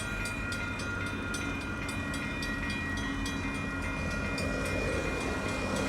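Union Pacific train rolling past a grade crossing: a steady rumble with faint, evenly repeated clicking.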